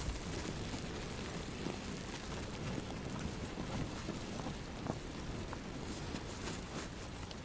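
Steady blizzard noise: wind rushing, with a few scattered light ticks.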